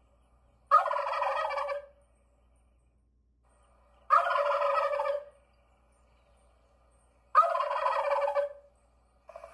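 A turkey gobbling three times, each gobble a rapid rattling call about a second long, spaced roughly three seconds apart.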